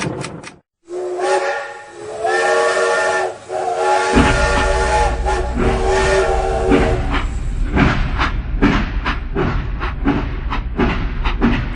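A whistle sounding a chord of several tones at once, blown in a string of short blasts over about six seconds, with a low rumble coming in partway through. It gives way to a fast, uneven run of sharp clicks.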